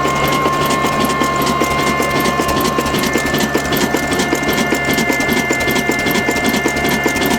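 Small engine running steadily with a fast, even mechanical clatter of ticking parts and a constant whine.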